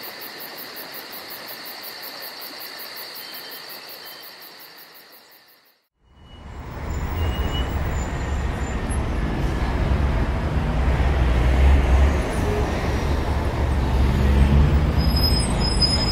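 Insects chirring, a steady high whine with fast pulsing, fading out about six seconds in. Then a louder low rumble with a hiss takes over for the rest.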